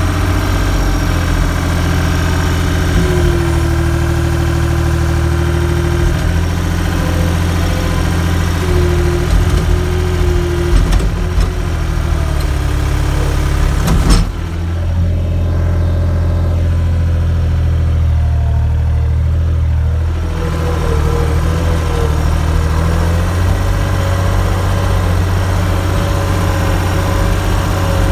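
Skid steer engine running steadily under load, its pitch shifting a few times, with one sharp knock about fourteen seconds in.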